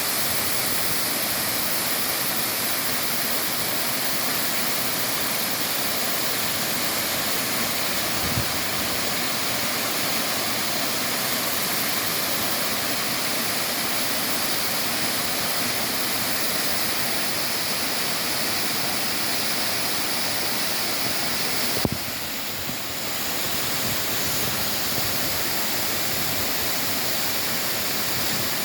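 Waterfall's falling water, a steady full rush. A small knock about a third of the way in, and a sharper click about three-quarters through, after which the rush briefly dips.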